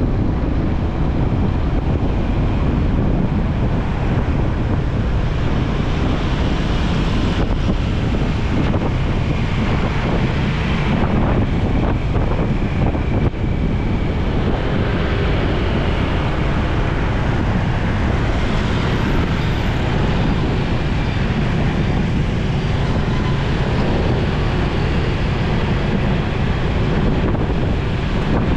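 Steady wind rush on the microphone of a moving motorcycle, with vehicle noise underneath.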